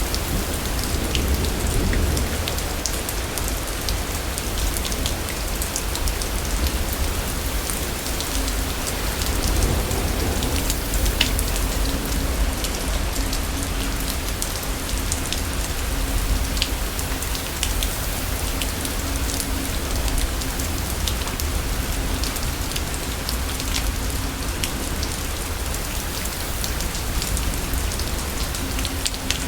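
Steady rain falling, with the patter of individual drops over a constant low rumble of a thunderstorm.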